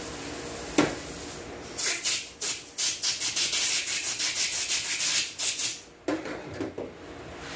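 A rapid run of rubbing strokes, about five a second for some four seconds, with a sharp click before it and a few clicks after.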